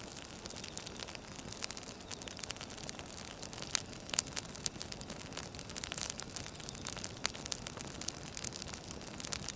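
Firewood burning: a constant soft hiss with many irregular sharp crackles and pops.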